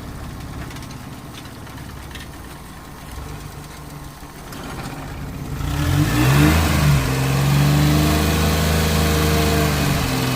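Kei truck's small engine idling with a low, steady note, then revved up about six seconds in, its pitch rising and holding at a higher, faster run. The idle still needs adjusting, by the owner's account.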